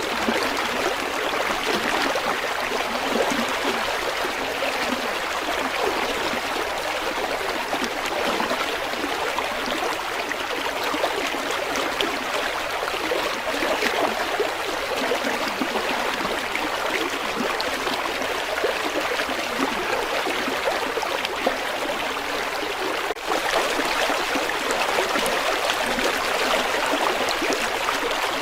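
River water flowing over rocks, a steady splashing and gurgling rush.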